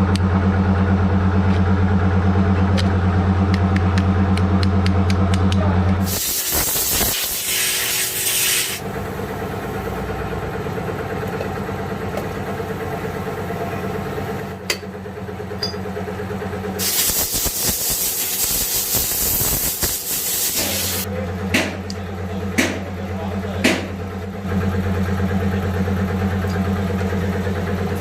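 A motor or engine running with a steady low hum, broken twice by long bursts of hissing, and a few sharp metallic clicks near the end.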